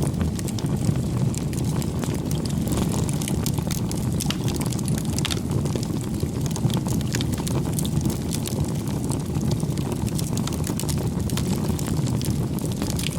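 Wood fire burning, with many irregular sharp crackles and snaps over a steady low rumble of the flames.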